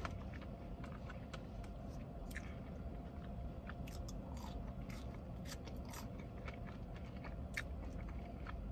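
A person chewing food close to the microphone, with scattered crisp crunches and wet mouth clicks, over a steady low hum.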